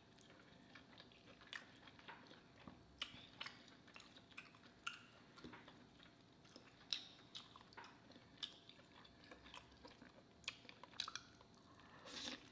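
Faint, close chewing and mouth clicks of someone eating lobster meat, with scattered soft smacks as the meat is pulled apart by hand, and a louder bite right at the end.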